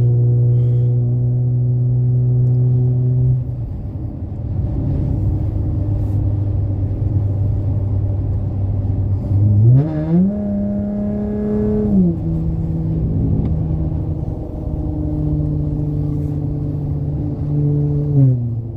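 Car engine running through MagnaFlow Magnapack exhausts while driving. Its pitch steps up at the start, drops back after a few seconds, then climbs sharply about ten seconds in as it accelerates and falls at about twelve seconds, with a smaller rise and fall near the end.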